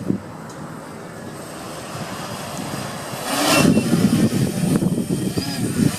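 Wind buffeting the microphone in irregular gusts, with a stronger gust about three seconds in.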